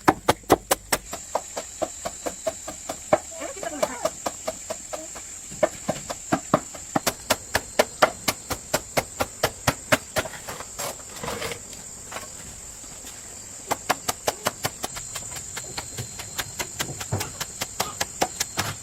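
Repeated chopping: a blade striking in quick runs of several strokes a second, with a short pause in the middle, over a steady high insect drone.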